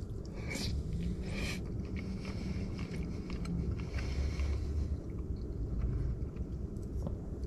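A man chewing a forkful of chicken pie and mash with his mouth closed, with soft mouth noises and a low hum in the first few seconds.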